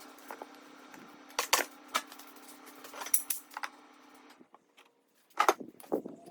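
Sharp metallic clinks and knocks, a few at a time, over a steady low hum that stops about four seconds in.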